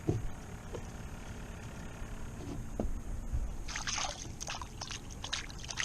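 Water splashing in a quick run of short bursts about two-thirds of the way in, beside a boat, over a steady low rumble.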